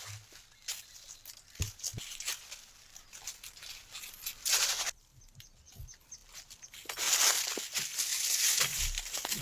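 Rustling and crackling of leaves and twigs with scattered sharp snaps; a longer burst of rustling about halfway and a louder, longer one near the end.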